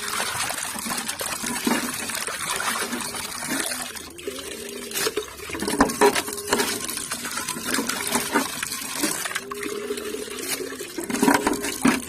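Water running and splashing steadily, with short calls from chickens breaking in over it again and again.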